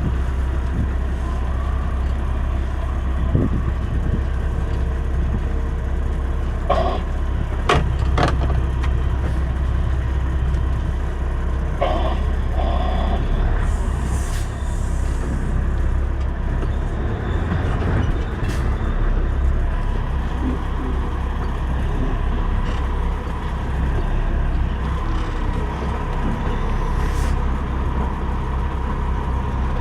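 Semi truck's diesel engine running steadily at low speed, with a few clicks about a quarter of the way in and a short air hiss about halfway.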